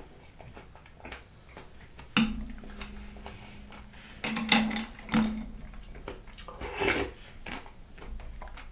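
Eating a bowl of fruit in coconut water with ice: a spoon knocking against the bowl a few times, with chewing and slurping in between.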